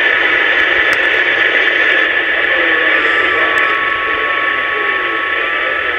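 Magnum 257HP 11-meter radio receiving a steady hiss of band noise during a skip opening, with faint, garbled distant signals wavering underneath. A steady whistle tone comes in about halfway through.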